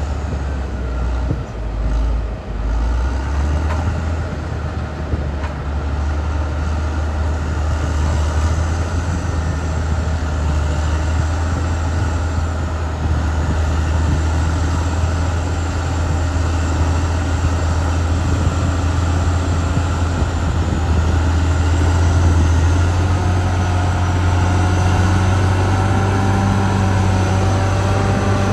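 Caterpillar D6R XL bulldozer's diesel engine running steadily under working load: a deep, continuous drone with a thin whine over it. The whine and the engine note shift in pitch over the last few seconds.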